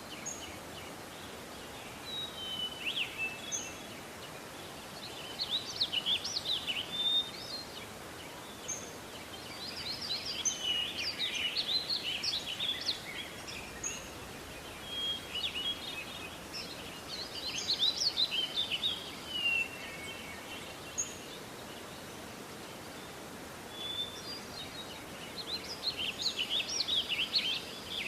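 Songbirds singing in a morning outdoor ambience: bursts of rapid high chirping phrases every several seconds, with single thin call notes in between, over a steady background hiss.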